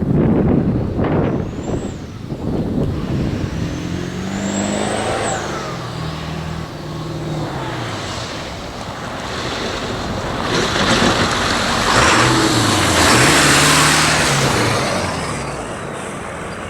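7.3 L Powerstroke turbo-diesel V8 in a 1976 Ford F600 truck under way, its engine pitch rising and falling as it pulls. A thin high whistle rises and falls twice early on, and a loud rushing noise peaks about two-thirds of the way through.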